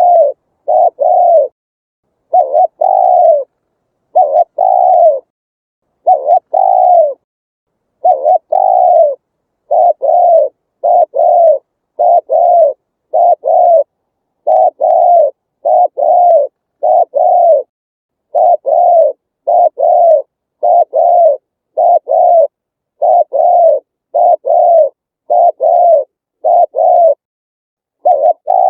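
Spotted dove cooing: a steady run of short, low coo notes, often in groups of two or three, with clean silence between them.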